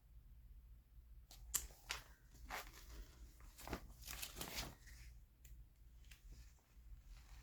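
Magazine pages being handled and turned: a series of soft paper rustles and crinkles from about a second in, dying away after about five seconds, over a low steady hum.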